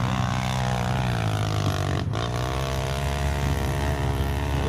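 Motocross motorcycle engine running under throttle, its pitch wavering, with a brief break about two seconds in.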